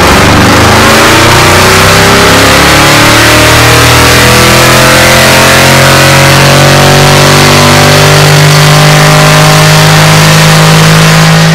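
BMW F10 550i's twin-turbo V8 at full throttle on a chassis dynamometer during a power run, loud, its revs climbing slowly and steadily in one long pull with no gear change.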